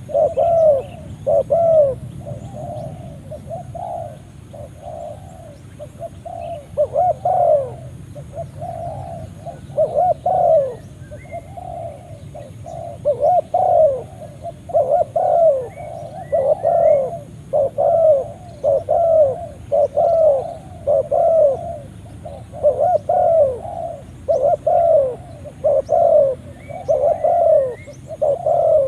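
Spotted doves (tekukur) cooing: arching coo notes repeated about twice a second in runs, with brief lulls between runs. Faint chirps from small birds come through underneath.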